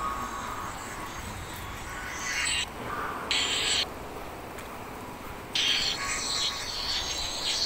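Birds calling: a short call about two seconds in, another about three and a half seconds in, then a longer run of calls from about five and a half seconds.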